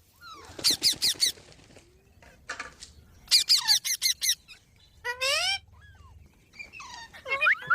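Green parrot calling in four bursts of shrill, rapid squawks. Each burst is a quick run of several notes, with a shorter gliding call just past the middle.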